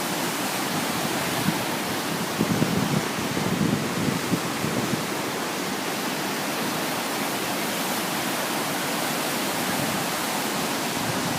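Rushing floodwater of a swollen river, a steady, even wash of noise, with a few short gusts of wind buffeting the microphone a couple of seconds in.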